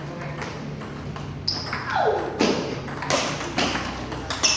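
Table tennis rally: the celluloid ball clicking sharply off bats and table about twice a second, with a short falling squeak about two seconds in.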